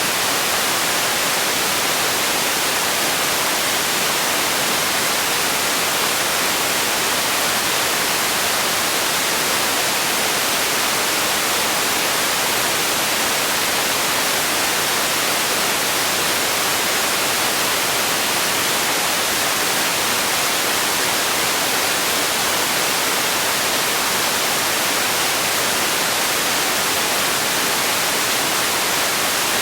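Steady sleep noise: a constant, even hiss, brightest in the treble, with no changes.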